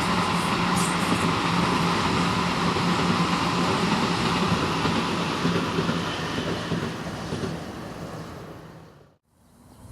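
Keihan Railway electric train running past, a steady rumble with a low motor hum, fading away over the last few seconds as it recedes.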